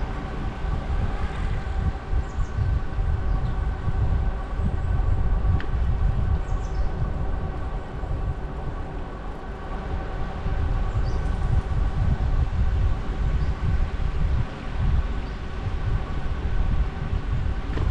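Wind buffeting the microphone of a camera on a moving bicycle, with a steady whine held at one pitch underneath.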